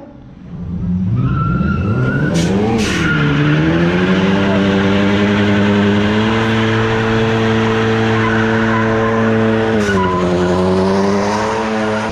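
Car doing a burnout: the engine revs up and is held at high revs for several seconds over a steady screech of spinning tyres, then the revs drop back about ten seconds in.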